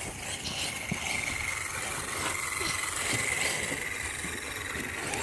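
A radio-controlled truck's motor whining steadily at a high pitch, with a light hiss.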